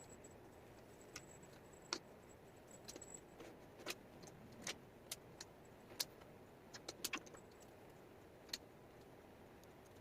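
Wooden jigsaw puzzle pieces clicking and tapping as they are handled and set down: about ten sharp, irregular clicks over a faint hiss.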